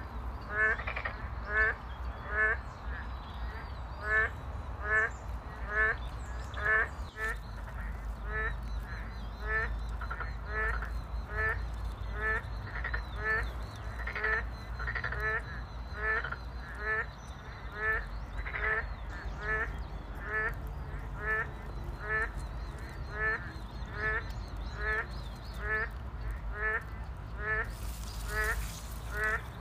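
Frogs calling: a short call repeated at an even pace, a little more than once a second, over a steady low rumble. A brief hiss near the end.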